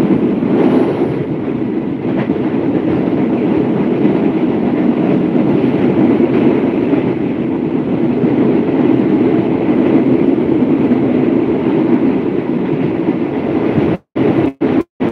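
Passenger train running along the track, heard from an open carriage window: a steady rumble of the wheels and carriage. The sound cuts out briefly three times near the end.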